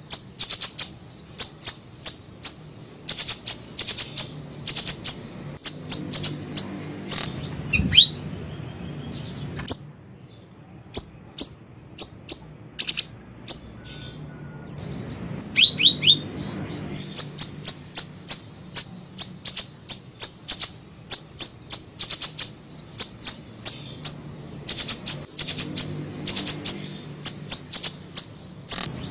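Siri-siri song: rapid bursts of short, sharp, high chirps, each a quick downward sweep, thinning out to scattered chirps in the middle with a few lower falling notes, then dense again.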